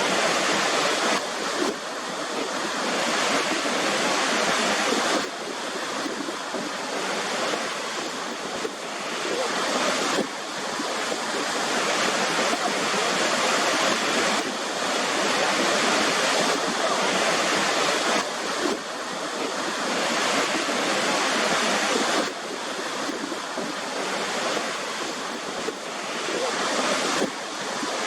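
Waterfall: a steady rush of falling water, with sudden small shifts in level every four or five seconds.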